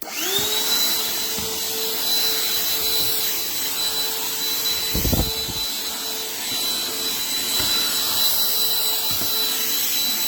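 Black+Decker Dustbuster AdvancedClean CHV1410L cordless handheld vacuum switched on: its motor spins up within a moment to a steady high whine over a rush of air. There is a brief low rumble about halfway through.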